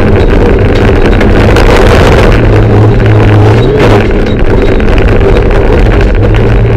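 Mitsubishi Lancer Evolution III rally car's turbocharged four-cylinder engine running hard under load, heard from inside the cabin with road and wind noise. The engine note shifts and briefly dips about four seconds in.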